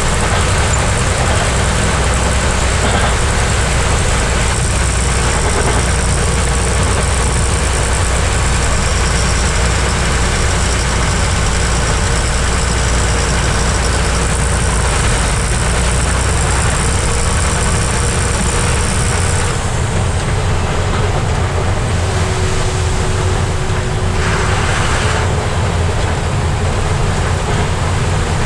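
Heavy truck's engine running steadily with road noise, as heard from the truck while driving; a short hiss cuts in near the end.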